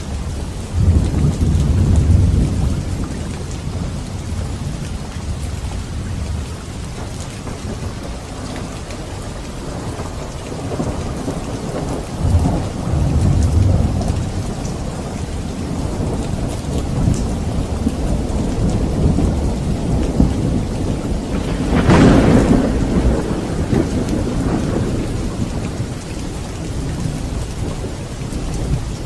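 Steady rain with rolling thunder: low rumbles near the start and again near the middle, then a sharper, louder thunderclap about two-thirds of the way through that rolls off over a few seconds.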